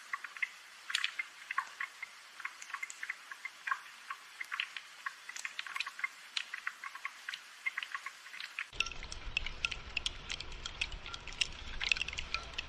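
Rain falling as an irregular patter of close drips, many separate drops a second. A little under nine seconds in, a low rumble joins in beneath the drips.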